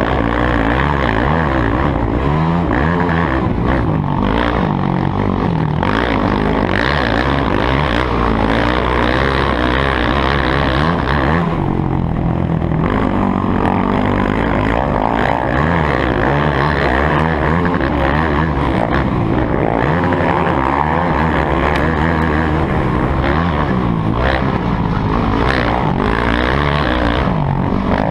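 Several motocross dirt bikes' engines running and revving, their pitch rising and falling constantly as they overlap.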